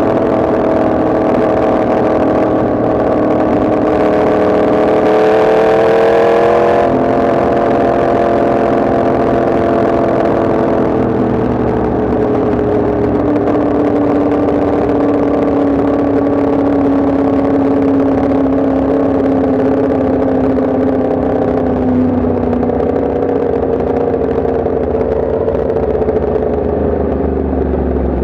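Yamaha MT-10 SP's crossplane inline-four engine running on the move. Its pitch climbs gently, drops suddenly about seven seconds in, then sinks slowly for the next twenty seconds.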